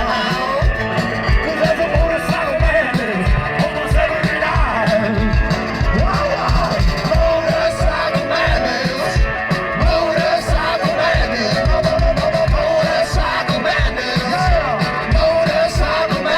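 A rock and roll band plays live: an instrumental passage with a steady, driving drum beat and a wavering lead melody over it.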